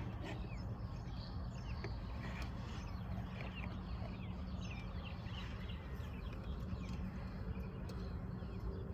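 Several small birds chirping, many short rising and falling calls repeating throughout, over a steady low rumble.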